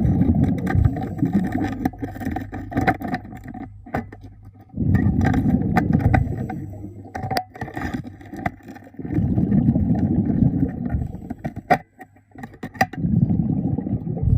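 A diver's exhaled bubbles rushing underwater in four surges a few seconds apart, with scattered sharp clicks between them.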